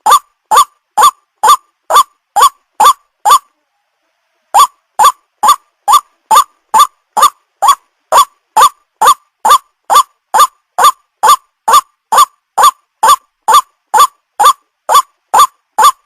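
White-breasted waterhen (ruak-ruak) call, a recording used as a bird lure: short, identical, slightly upward-sweeping notes repeated about twice a second. There is a pause of about a second a few seconds in, then the calling resumes at the same pace.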